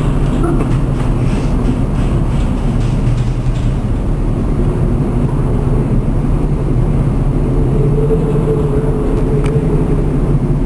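Steady low rumble and hum of a ship's engine and machinery heard on board, with a faint click near the end.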